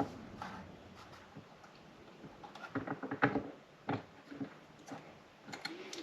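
A few light knocks and clatters of monitor arm parts being handled and set down, loudest about three to four seconds in, with quiet between.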